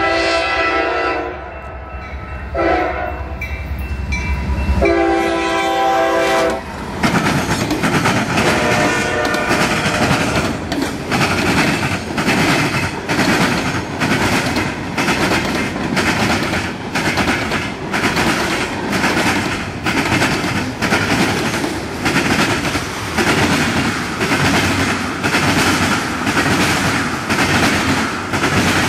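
Freight train passing close by: the locomotive's air horn sounds a long blast, a short one and another long one, then the cars roll past with a steady rhythm of wheel clicks over the track.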